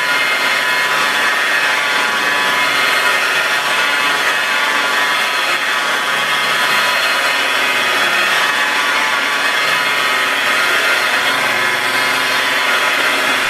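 Electric car buffer running steadily with a constant whine, polishing the paint with swirl mark remover.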